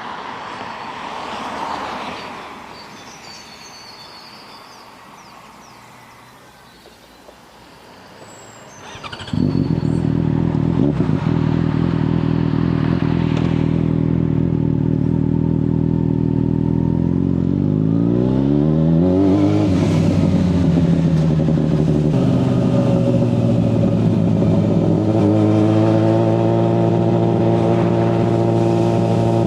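Yamaha FZ6 S 600cc inline-four motorcycle engine starting abruptly about a third of the way in and idling steadily. Near the middle it is blipped once, the note rising and falling, and near the end it settles at a slightly higher steady note. Before the start there is only faint outdoor background with a brief swell of a passing vehicle.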